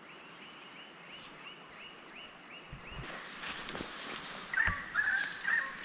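Birds calling: a rapid high chirp repeats about three times a second, then louder, harsher calls take over in the last second and a half. A few low knocks come in between.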